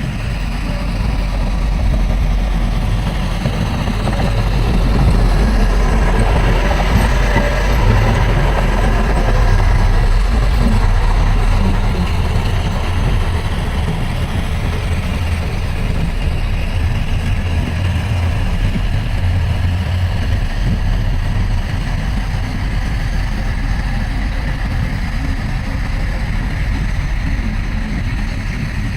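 Heavy diesel engine of earthmoving machinery running steadily, growing louder for several seconds in the first half as it works, then settling.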